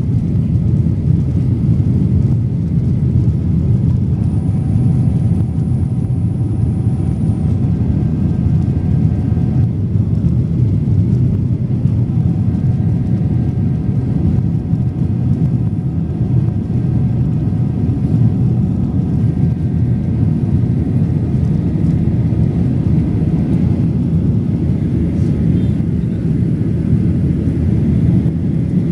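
Steady cabin rumble of a Boeing 737-800 under takeoff power, from its CFM56-7B turbofans and airflow, heard inside the cabin. It stays even throughout, with a faint high whine for a few seconds.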